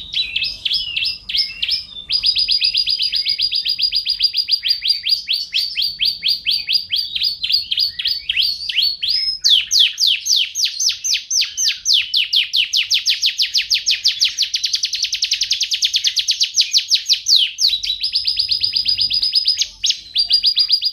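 Domestic canary singing: long rolling trills of fast repeated high notes, each phrase running several seconds with short breaks between them.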